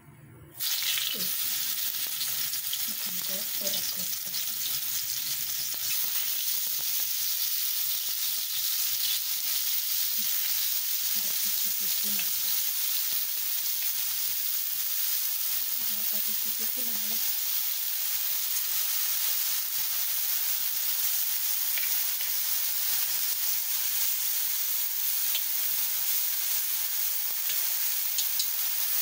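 A clump of enoki mushrooms frying in hot oil in a wok. A steady sizzle starts suddenly about half a second in, as the mushrooms go into the oil.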